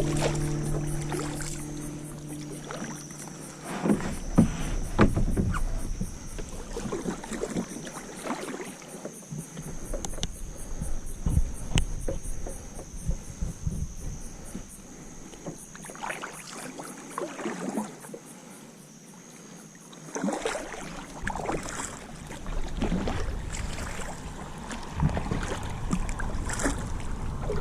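Kayak paddling on a creek at night: irregular paddle strokes, splashes and drips, and occasional knocks against the hull. A steady high chirring of insects runs underneath, and the tail of background music fades out at the start.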